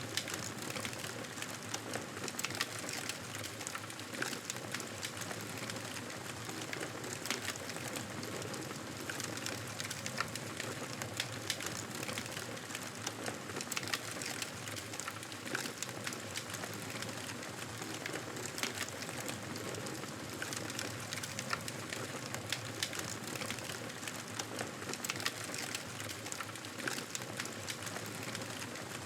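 Fireplace crackling: a steady low hiss of burning wood with frequent small, irregular pops and snaps.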